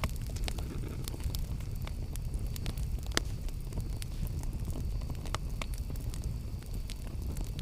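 Campfire burning: scattered sharp crackles and pops over a steady low rumble, the loudest pop about three seconds in.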